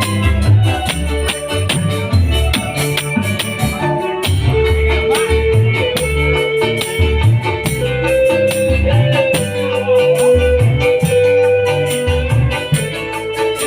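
Orkes Melayu (dangdut) band music played loud through a sound system: electronic keyboard, shaker and tambourine over a heavy, pulsing bass beat. A long held melody line comes in about four seconds in.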